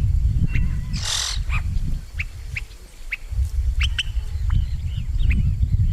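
Wild birds calling: a series of short, sharp chirps and one harsh squawk about a second in, over a low rumble.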